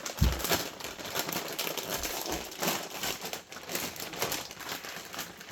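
Ruffles potato chip bag crinkling and crackling as it is handled and opened, with a dull bump just after the start.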